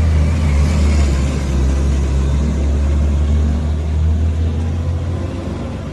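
Vehicle engine running with a steady low rumble, slowly fading toward the end.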